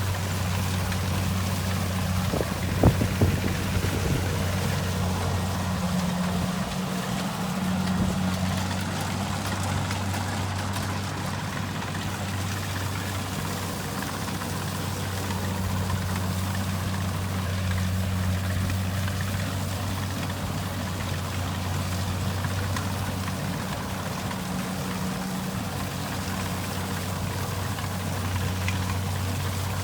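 Kubota rice combine harvester's diesel engine running steadily, a constant low drone under a broad mechanical rush, with a few sharp knocks about three seconds in.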